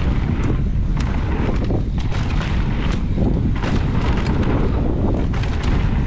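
Heavy wind buffeting the microphone while riding a mountain bike fast down a trail, with short clicks and knocks from the bike and tyres over the dirt scattered through it.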